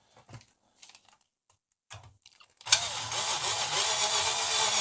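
Electric screwdriver driving a screw home, running steadily for about two and a half seconds from just before the middle onward, after a few light handling clicks.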